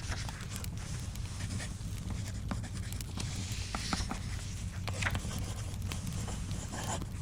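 Wood fire crackling with scattered sharp pops over a steady low rumble, and the papery swish of a book page being turned about three and a half seconds in.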